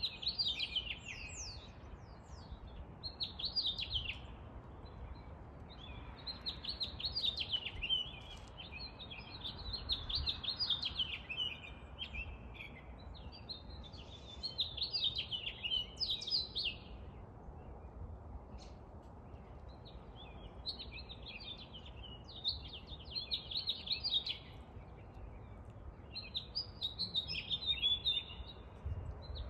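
Songbirds chirping in bursts of quick high notes, a new phrase every few seconds with short pauses between, over a faint steady low background rumble.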